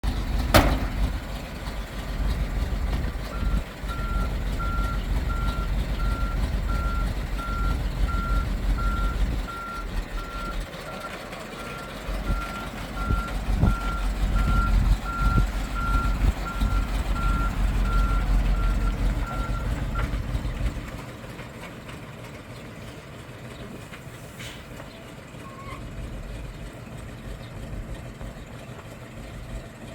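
Truck reversing alarm beeping at an even pace over a heavy engine. The beeping stops about two-thirds of the way through and the engine drops to a quieter rumble, a sign that the truck has stopped backing up.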